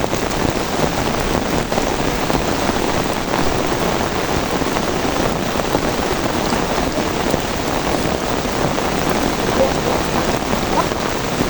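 Steady rain falling, a dense even hiss with individual drops ticking through it.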